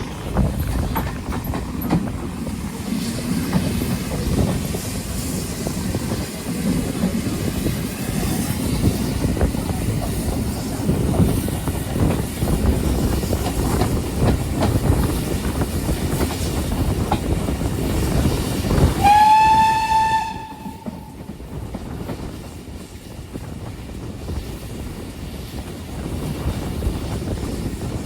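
Railway train in motion, heard from on board: a steady rumble with clatter from the wheels on the track. About two-thirds of the way through, the locomotive gives one blast of its horn or whistle, lasting about a second and a half, that rises slightly in pitch and then holds. After the blast the running noise is quieter.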